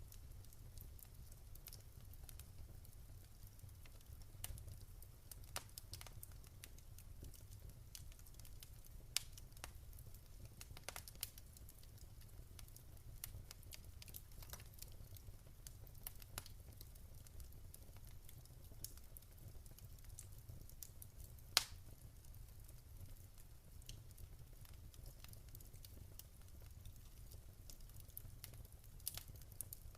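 Wood fire crackling softly, with scattered irregular pops and one sharper pop about two-thirds of the way through, over a low steady hum.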